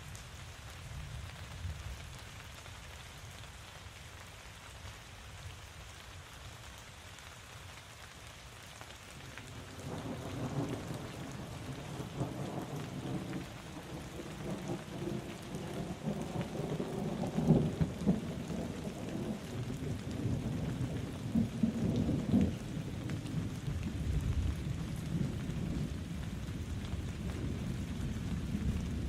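Steady rainfall, with a long roll of thunder building about a third of the way in and rumbling on, loudest a little past the middle.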